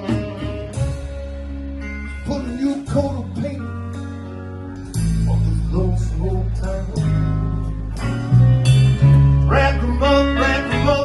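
Live band playing: a bass line, guitar and drums, with singing. It gets louder about halfway through.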